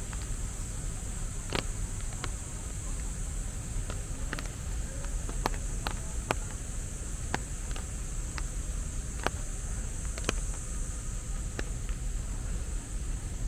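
Steady high-pitched buzz of insects over a low city rumble, with scattered sharp clicks about once a second at uneven spacing.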